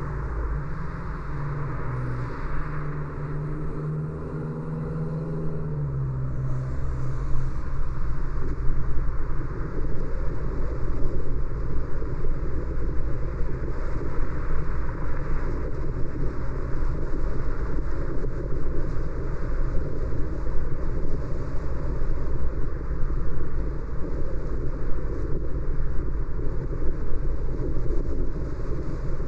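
Car driving in city traffic. In the first six seconds a low engine drone steps up in pitch and then fades. From then on a steady rumble of road and tyre noise grows a little louder.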